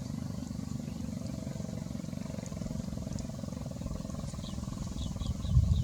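A low, steady rumble, with several faint, short high chirps from small birds about four to five seconds in.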